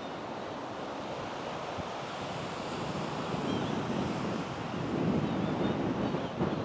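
Strong gusty wind rushing, a steady noise that swells into a louder gust about halfway through.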